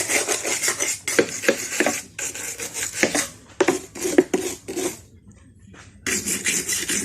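Wire brush scrubbing corroded car metal in quick, scratchy back-and-forth strokes, pausing for about a second about five seconds in.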